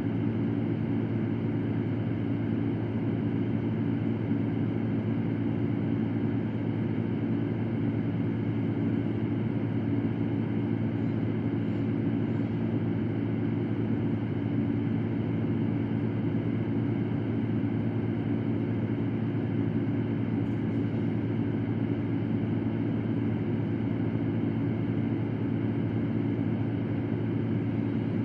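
Electric fan running steadily: a constant low hum under an even rush of air, unchanging throughout.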